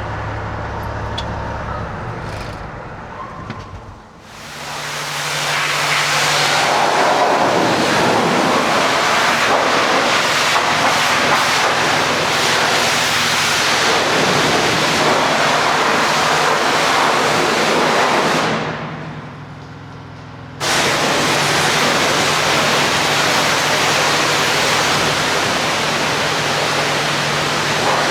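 High-pressure washer spraying water on a trailer, a dense hiss with a steady pump tone under it. It starts about four seconds in after a low engine hum, stops for about two seconds near two-thirds of the way through, and cuts back in suddenly.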